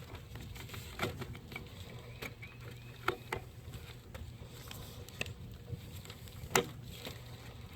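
Scattered light clicks and knocks of parts being handled and clipped back into place, the sharpest about six and a half seconds in, over a steady low hum.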